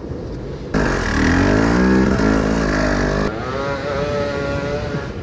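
Enduro motorcycle engines revving, the engine note rising and falling. The sound changes abruptly under a second in and again about three seconds in, where it switches to a steadier engine note.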